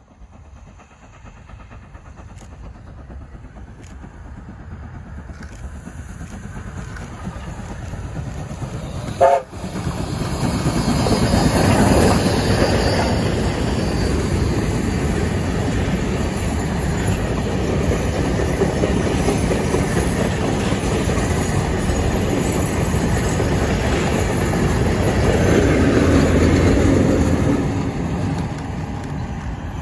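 A steam-hauled passenger train passing close by: the approaching train grows steadily louder, a short sharp sound comes about nine seconds in, and then wagons and carriages go by with a steady rumble and clatter of wheels on rail. Near the end the trailing 45 class diesel locomotive passes with a swell of engine drone before the sound drops away.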